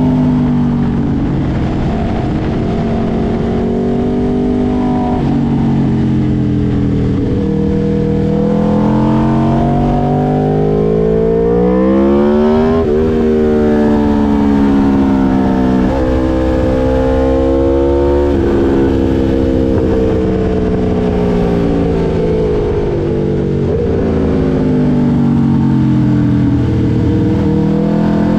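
2022 Aprilia RSV4 V4 engine through an SC Project S1 titanium exhaust, heard onboard at racing speed. The engine note climbs under hard acceleration and drops sharply at each quick upshift, then falls through stretches of braking and downshifts, several times over.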